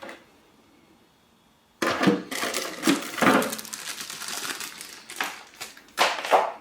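Hard plastic clattering and knocking, with a string of sharp clicks and bumps that starts about two seconds in: the plastic water collection tray of a dehumidifier being handled.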